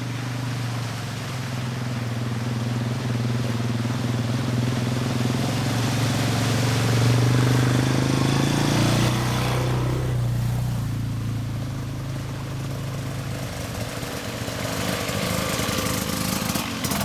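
Small off-road vehicle engines running as the riders go through a puddle, swelling to their loudest about seven seconds in and fading away by around fourteen seconds, with a rush of splashing water around nine to ten seconds.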